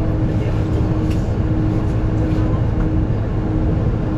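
Steady low rumble of a vehicle cabin in motion, with a constant droning hum over it.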